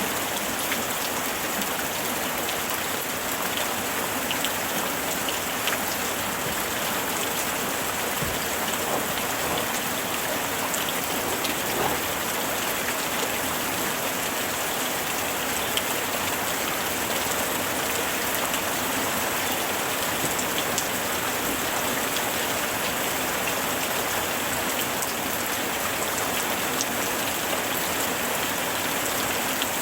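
Steady summer rain falling, an even hiss with scattered individual drops ticking on a surface.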